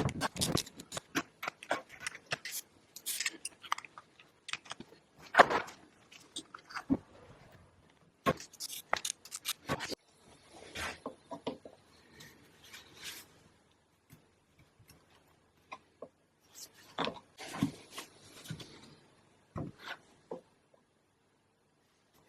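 Irregular clicks, knocks and short scrapes of hand tools and small metal parts being handled while an excavator's starter motor is cleaned and reassembled.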